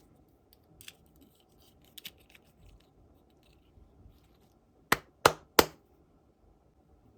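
Small hard objects being handled: a few light clicks and taps, then three sharp clicks in quick succession about five seconds in.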